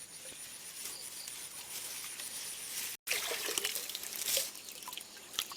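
Shallow stream water trickling and splashing. The sound cuts out sharply about three seconds in, and the splashing is louder after the cut.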